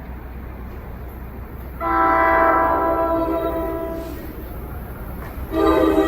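NJ Transit train horn sounding a multi-note chord: one blast of about two seconds that fades, then a second blast starting near the end, over the low rumble of the approaching train.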